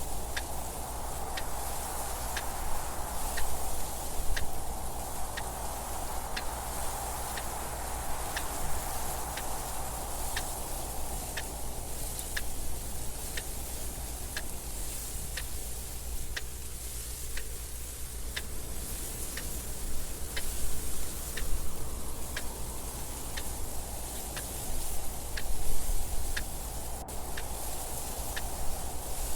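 A clock ticking steadily, with a soft wind noise that swells and fades beneath it and dips lowest around the middle.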